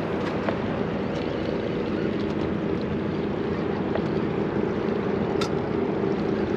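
A boat's engine humming steadily under wind and water noise on the microphone. There are a few light clicks and one sharp click about five seconds in.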